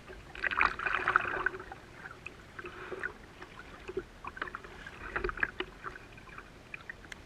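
Water splashing and sloshing around a kayak. The loudest stretch comes about half a second to a second and a half in, and scattered small knocks and clicks follow.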